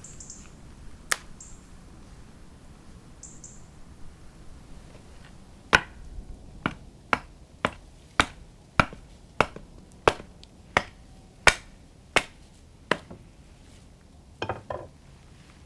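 A series of about a dozen sharp, evenly spaced clicks, roughly one every half second, with a single click earlier and a short cluster of knocks near the end.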